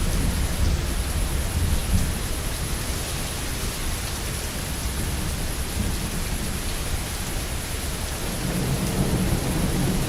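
Heavy rain falling steadily, with thunder rumbling low underneath. The rumble eases off in the middle and a new roll of thunder builds near the end.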